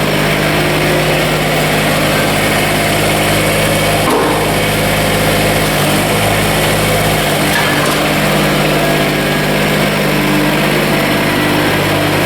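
Kubota BX24 compact tractor's three-cylinder diesel engine running steadily.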